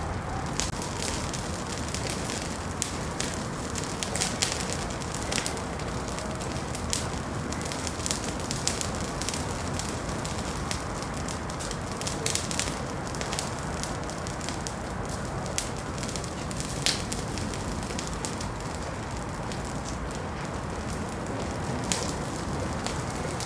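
Wood fire in a fireplace crackling, with irregular sharp pops and snaps over a steady low hiss and rumble of the burning.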